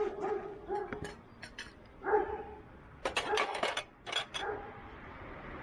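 A dog whimpering in short high whines, then a cluster of sharp clicks and clatters about three seconds in.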